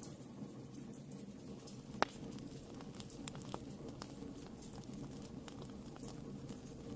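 Wood fire burning in a fireplace, crackling with scattered small pops over a low steady rush of the flames, and one louder sharp pop about two seconds in.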